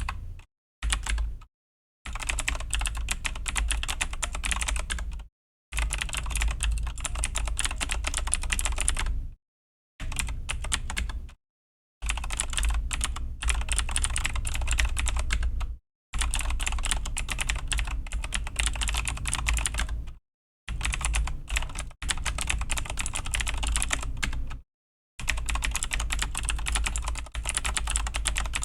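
Razer BlackWidow V3 mechanical keyboard with clicky Razer Green switches being typed on fast, a dense run of key clicks. The typing comes in spurts of a few seconds, broken by short pauses of silence about every three to four seconds.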